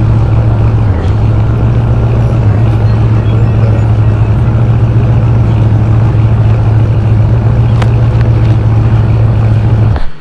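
Car engine running with a loud, steady low drone that cuts off abruptly near the end.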